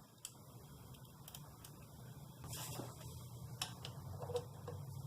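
Faint clicks, ticks and light knocks of small car parts being handled, with a short hiss about two and a half seconds in, over a steady low hum.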